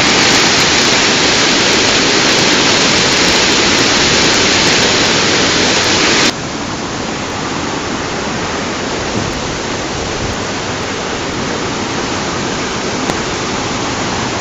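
Flood-swollen river rushing below a bridge: a loud, steady noise of fast water that drops suddenly about six seconds in to a quieter, duller rush.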